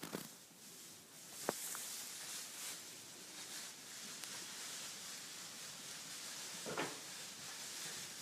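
Faint rustling of animals moving about, with one sharp knock about a second and a half in and a short scuffling noise near the end.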